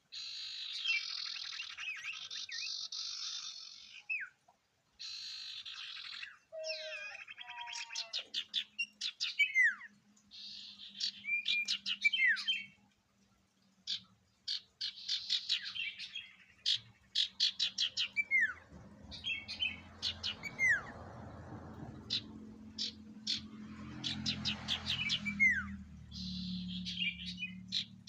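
An iora (sirtu) singing in varied phrases: buzzy chattering trills, quick runs of sharp repeated notes, and short whistles that slide steeply down in pitch. A low steady hum runs under the song from about eight seconds in.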